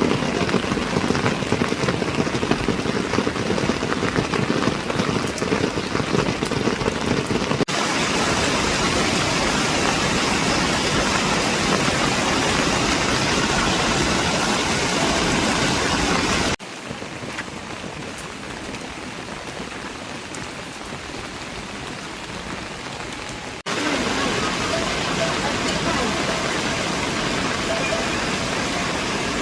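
Heavy rain falling: a steady hiss of rain on surfaces. The sound changes abruptly a few times, as if between shots. It drops to a softer level for several seconds past the middle, then comes back up near the end.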